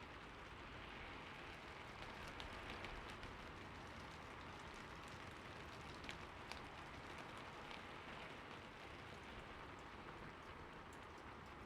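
Steady rain: an even hiss with scattered sharp taps of single drops.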